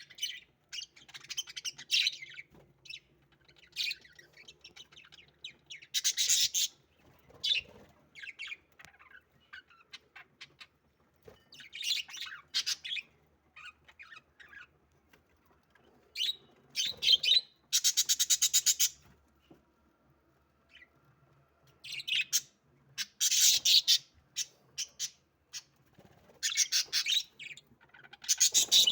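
Budgerigars chirping and chattering in repeated bursts of high, sharp calls with short pauses between, including one fast rattling run of evenly repeated notes about two-thirds of the way through.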